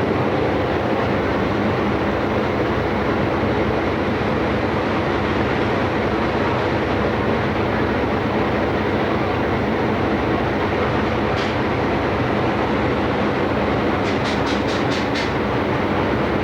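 Passenger motor ship under way, heard on board: a steady engine drone with a loud, even rush of noise. A brief click about two-thirds of the way in, then a quick run of about six light clicks near the end.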